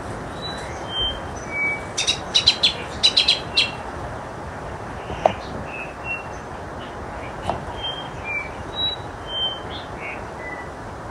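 Birds calling over a steady background hiss: short whistled notes at different pitches scattered throughout, with a quick run of loud, sharp chips about two seconds in.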